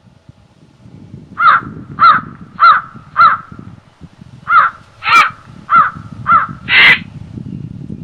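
A bird giving a run of loud, caw-like calls about two a second: four, a short pause, then five more, the last one longer and rougher. Wind rushes steadily through the forest underneath.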